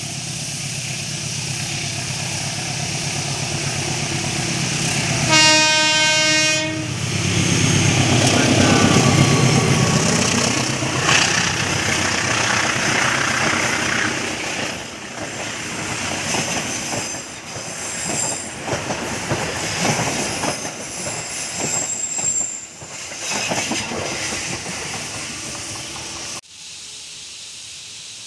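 Diesel-hauled passenger train rounding a curve. Its rumble builds until one steady horn blast about five seconds in, then the locomotive passes loudly. The coaches follow with a rhythmic clickety-clack over the rail joints and brief high wheel squeals. The sound cuts off suddenly near the end.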